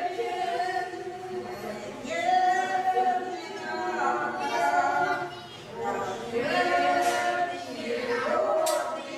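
Unaccompanied voices singing a slow Russian romance in drawn-out phrases, with long held notes and short breaths between lines.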